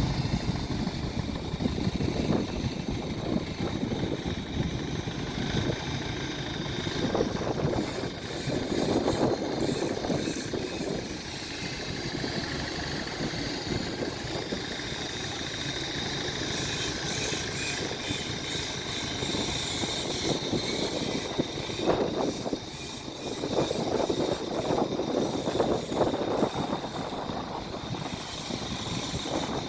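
A heavy machine's engine running steadily, swelling louder for a few seconds twice.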